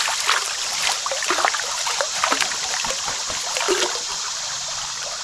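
Creek water running and babbling, with many small irregular splashes.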